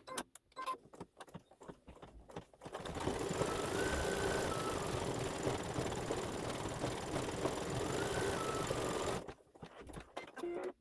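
Embroidery machine stitching a design: a few separate ticks, then about three seconds in the needle mechanism starts running steadily for some six seconds and stops, followed by more ticks.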